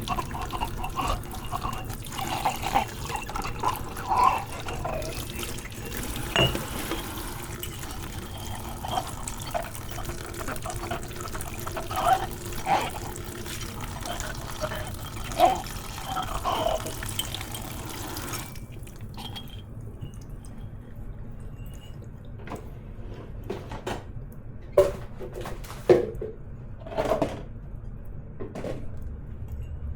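Kitchen tap running into a sink while dishes are washed, with scattered clinks of crockery. About two-thirds of the way through the water stops, leaving separate knocks and clinks of dishes being handled.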